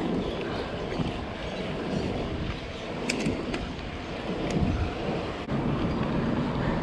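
Wind buffeting the microphone of a bike-mounted camera while riding, over a motor vehicle engine running on the road.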